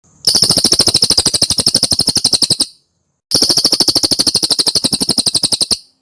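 Cililin songbird giving two rapid trills of about a dozen notes a second, each lasting about two and a half seconds, with a short pause between them.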